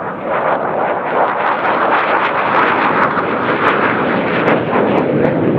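Twin-engine F-15 Eagle jet noise during a low approach: a loud, steady rush that builds slightly as the jet comes closer.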